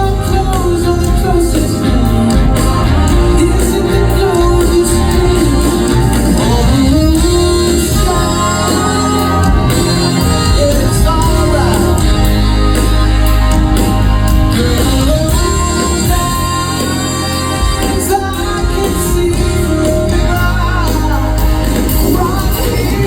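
A live band performing a song: a lead vocal sung over a full band, with steady bass and drums.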